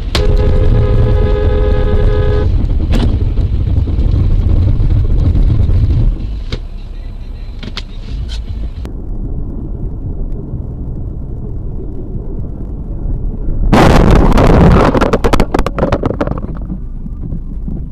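Car interior road and engine rumble with a car horn sounding for about two and a half seconds at the start. About fourteen seconds in comes a loud, rough burst full of sharp knocks that lasts a couple of seconds.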